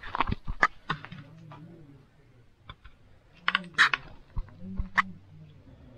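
A run of irregular sharp clicks and knocks, like small hard objects being handled, with a faint low murmur of voices in between.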